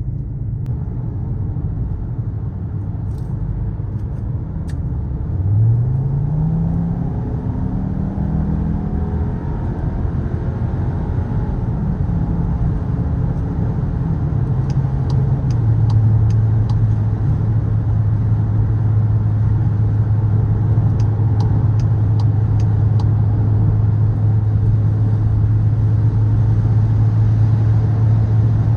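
Skoda Kodiaq RS's 2.0 TSI turbocharged four-cylinder engine under way. About five seconds in it accelerates, rising in pitch through a run of gear changes. From about halfway it settles into a steady, even drone at constant speed.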